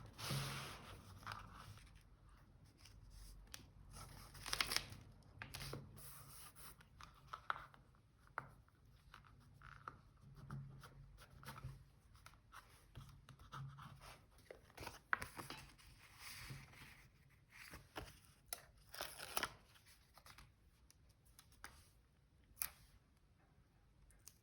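Faint paper-craft handling: paper being torn and handled, in scattered short crackling strokes and light taps.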